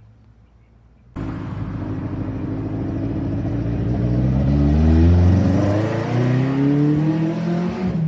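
Toyota TE27 Corolla Levin rally car's carburetted TRD 152E four-cylinder race engine, cutting in loud about a second in and accelerating, its pitch climbing, dropping back and climbing again as it works up through the revs.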